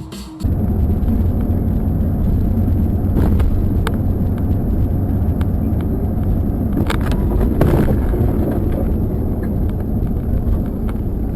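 Steady low rumble of a road vehicle on the move, heard through a dashboard camera's microphone, with a few short knocks between about three and eight seconds in.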